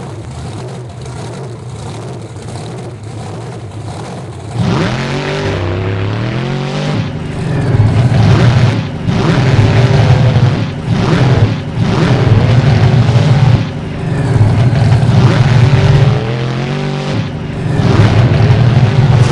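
Monster truck's supercharged V8 engine running at a lower, steadier level for about four seconds, then revving hard in repeated bursts. The pitch climbs and drops with each burst, with short lifts of the throttle in between.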